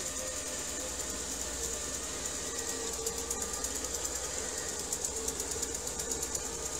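ILIFE W90 cordless wet-dry floor vacuum running: a steady motor whine with a rapid, even clicking rattle over it.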